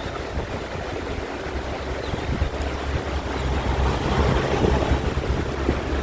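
Steady rushing of water from a mountain valley stream, with wind rumbling on the microphone; it swells a little past the middle.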